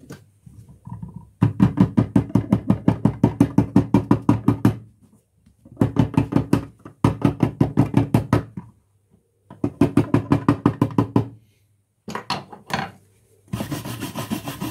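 Lightweight pin hammer tapping rapidly on lead sheet to beat a flat flange, about six blows a second in three long runs. Near the end, a rough scraping as the lead is cleaned.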